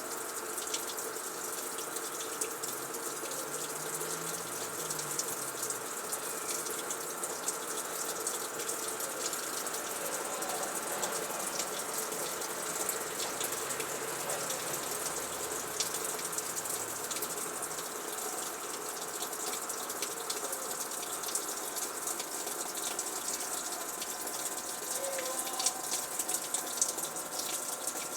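Water rushing steadily through a Frigidaire washing machine, with a faint steady hum and a few small clicks.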